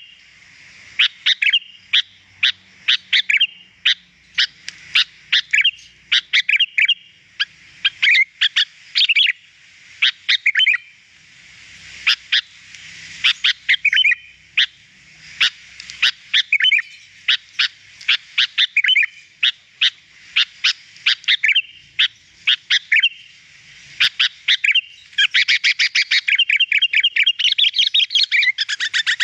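Sooty-headed bulbul (kutilang) singing: short phrases of quick, high chirps, about one a second, running into a faster, unbroken string of chirps near the end.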